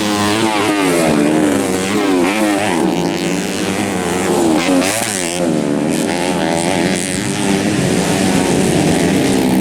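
Several racing dirt-bike engines revving hard, their notes overlapping and sliding up and down in pitch as the riders work the throttles and shift.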